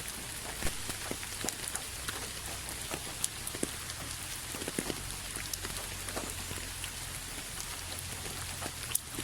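Steady rain falling, an even hiss with many separate drops ticking sharply on a surface, over a low steady rumble.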